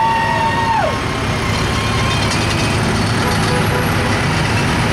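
A vehicle horn blast that falls in pitch and stops about a second in, over the steady rumble of tractor and truck engines.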